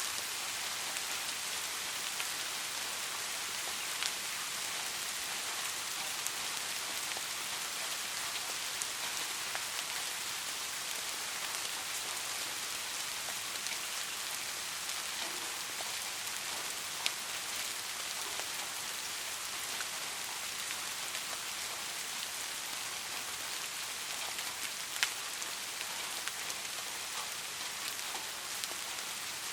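Soft rain falling steadily, an even hiss of raindrops with an occasional sharper single drop hit.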